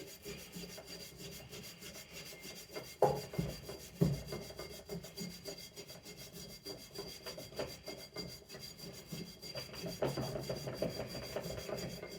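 Rust being scrubbed by hand off the magnets of a vintage Briggs and Stratton engine's flywheel: an uneven, rough rubbing. There are two sharp knocks about three and four seconds in, and the rubbing grows louder about ten seconds in.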